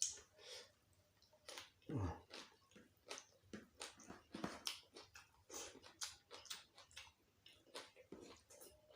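Close-up eating sounds: wet chewing and crunching, with irregular mouth clicks and smacks a few times a second, from a mouthful of food being chewed.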